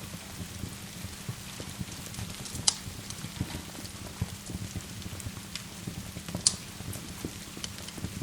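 Steady rain pattering along with a crackling wood fire. Two sharp pops stand out, one about a third of the way in and one about three-quarters through.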